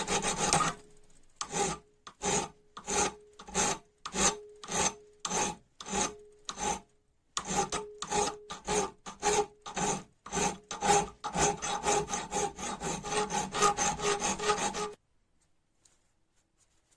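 A hand file rasping in back-and-forth strokes on a rusty steel wrench, with a faint metallic ring under the strokes. The strokes come about twice a second, pause briefly near the middle, come faster after that, and stop about two seconds before the end.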